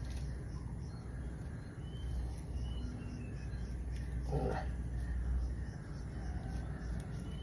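Birds chirping and one short animal call about four seconds in, over a low steady rumble.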